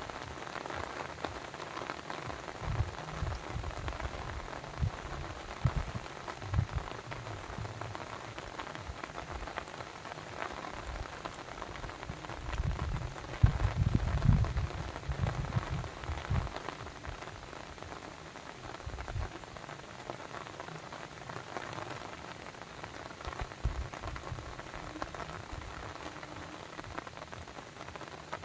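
Continuous water sound, a steady splashing patter full of small ticks, with irregular low thumps that come thickest about halfway through.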